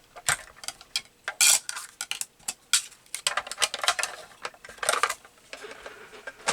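Scissors snipping out small paper cut-outs: a quick run of sharp snips and clicks, with a couple of longer rustling strokes as the paper slides.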